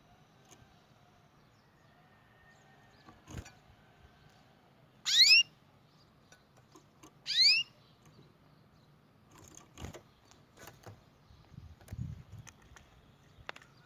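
Canary giving two short calls about two seconds apart, each a quick upward-sweeping note, with scattered faint clicks and taps between them.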